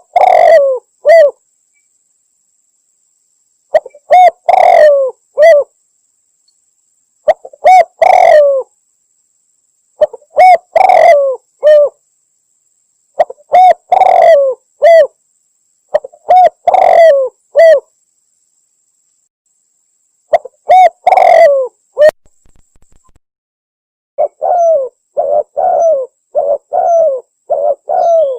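Spotted dove (tekukur) cooing loudly and close: a phrase of about three coos, repeated seven times roughly every three and a half seconds, then a quicker run of shorter coos near the end. It is a lure call, the kind billed as a female calling a male.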